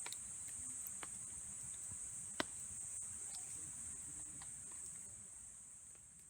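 Steady high-pitched insect buzz, a continuous chorus, with a few sharp clicks, the loudest about two and a half seconds in.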